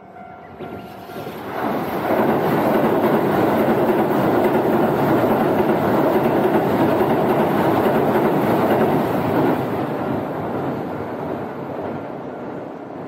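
A Keihan electric train crossing a steel truss bridge: a loud, steady rumble of wheels on rails and the bridge's steelwork. It builds about a second and a half in and fades near the end as the train passes.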